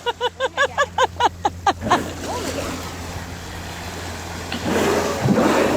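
Steady hum of the whale-watching boat's engine, under a rapid run of short, high-pitched excited yelps from a person in the first two seconds. About five seconds in comes a brief burst of rushing water.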